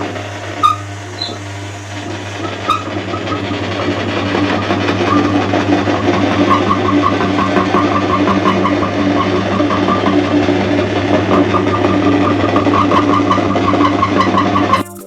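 Electric meat grinder running steadily as it grinds soap, a steady motor hum with a couple of sharp clicks in the first few seconds. It cuts off abruptly near the end.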